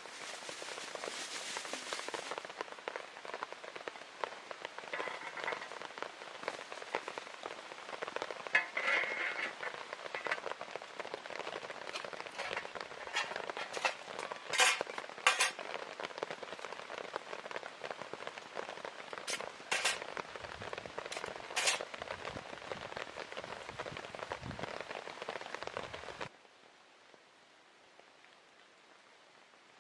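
Rain pattering steadily, with sharp taps now and then. It cuts off abruptly about 26 seconds in, leaving only a faint steady hiss.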